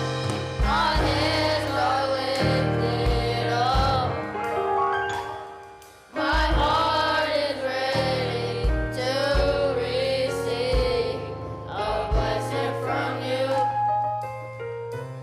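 Gospel music: voices singing wavering, drawn-out phrases over a band with bass and drums, easing off briefly about six seconds in before picking up again.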